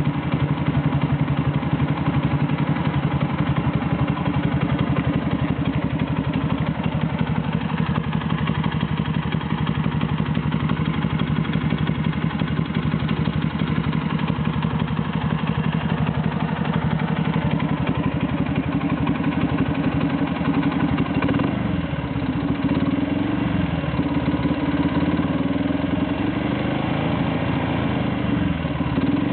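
Honda Super Cub's 124cc single-cylinder four-stroke engine running near idle with a busy clattering, rattling mechanical noise, described as 'kasha-kasha' or 'kan-kan'. This is the abnormal engine noise the owner is investigating. The engine speed dips and rises a few times in the last third.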